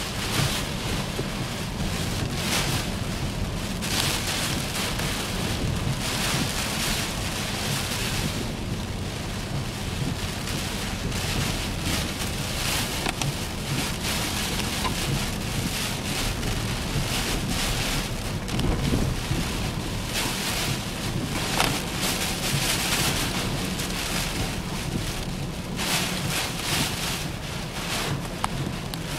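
Heavy hurricane rain beating on a car's roof and windshield, swelling and easing every few seconds with the gusts. Under it runs a steady low rumble of the car driving on the wet road.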